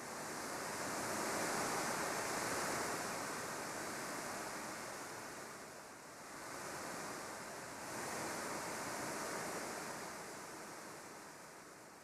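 Even rushing noise that swells, dips about halfway through, swells again and fades near the end.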